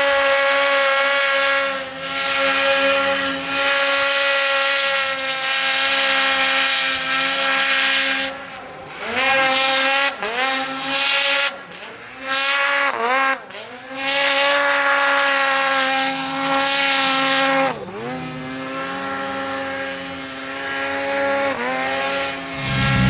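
Turbocharged Polaris Patriot Boost two-stroke snowmobile engine running hard at high revs through a BoonDocker Sidekick muffler. About a third of the way in the throttle is chopped and snapped back open several times in quick succession; later the revs drop, hold lower, and climb again near the end.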